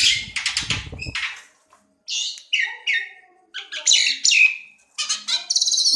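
A songbird singing: bursts of high, varied chirping phrases with short pauses between them, ending in a fast trill.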